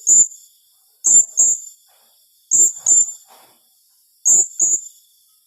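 Blue-crowned hanging parrot (serindit) calling in sharp, high-pitched double notes, four pairs about one and a half seconds apart. This is the rapid 'tembakan' call that keepers play as a lure.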